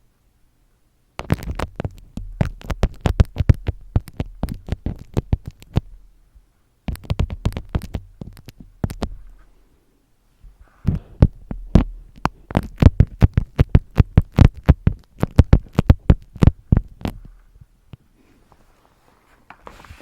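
Rapid close-up ASMR tapping: runs of sharp taps several a second, each with a low thud under it, in three bursts with short pauses between.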